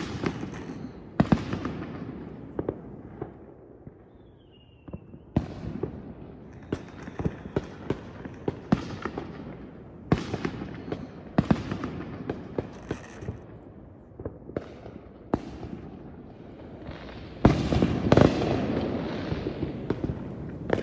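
Fireworks going off: a long run of sharp bangs at irregular intervals, each fading away after the burst. A brief dip sits about four seconds in, and the densest, loudest volley comes near the end.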